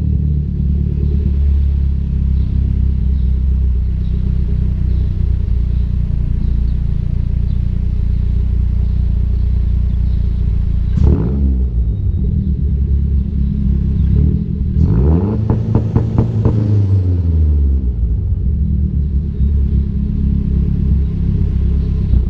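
Mazdaspeed3's turbocharged 2.3-litre four-cylinder running through its exhaust at a steady idle, blipped once about eleven seconds in and revved longer around fifteen seconds in before settling back to idle.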